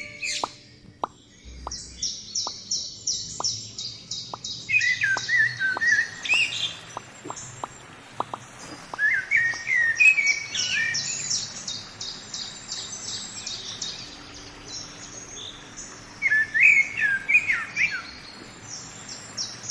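Birdsong: a fast, steady series of short high chirps, with bursts of descending whistled calls recurring every few seconds.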